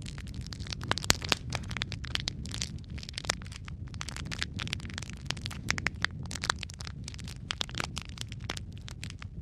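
Wood fire burning in a fireplace: a steady low rumble of flames with frequent irregular crackles and pops from the burning wood.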